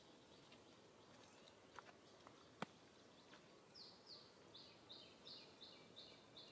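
A bird calling faintly in a run of about eight short falling notes, about three a second, starting a little past halfway, over quiet outdoor ambience. A single sharp click comes a little over two seconds in.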